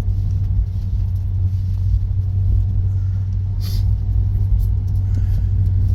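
Steady low rumble of a running motor vehicle, with a brief hiss about three and a half seconds in.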